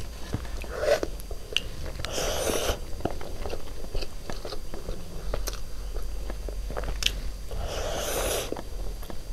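Close-miked chewing and mouth sounds of someone eating chicken biryani by hand, with many small wet clicks. Two longer swells of noise come about two and eight seconds in.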